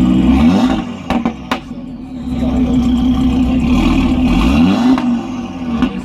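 Car engine with a straight-piped exhaust (muffler deleted) revving twice and dropping back between blips, with two sharp pops about a second in as the revs fall.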